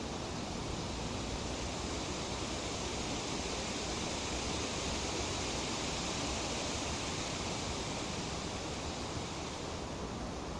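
Wind in the leaves of trees: a steady, even rushing rustle, swelling slightly near the middle and easing off again.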